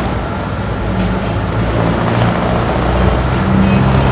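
Car engine idling steadily with its belt-driven aircon pulleys turning on a newly replaced tensioner, running smoothly without the earlier noise.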